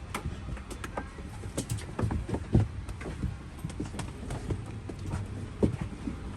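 Footsteps clacking unevenly on a hard floor, with dull knocks mixed in, over a low steady hum.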